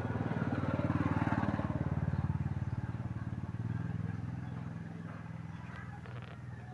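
An engine running with an even firing pulse. It swells louder over the first two seconds or so, then eases back to a steadier, quieter level.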